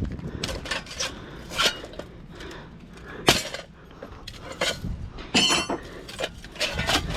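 Metal clinks, taps and knocks from working leftover copper windings out of a torn-down electric motor, with one sharp strike about three seconds in.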